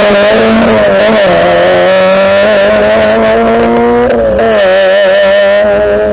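Rally car engine running loud at high revs, its pitch holding fairly steady with a brief dip in revs about four seconds in before it picks up again.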